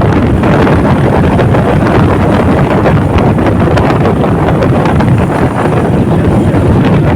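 Loud, steady wind noise buffeting the microphone while riding a motorcycle, covering any engine sound.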